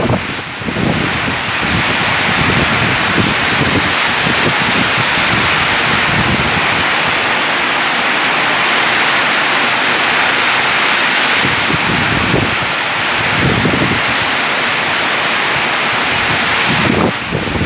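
Heavy rain pouring steadily with strong wind, gusts buffeting the microphone now and then.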